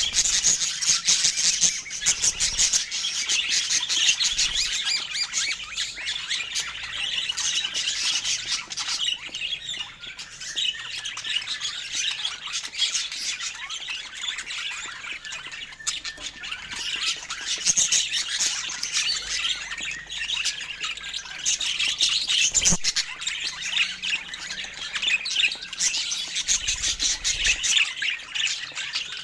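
Parakeets chattering: a steady, dense mix of rapid high chirps and squawks from several birds at once.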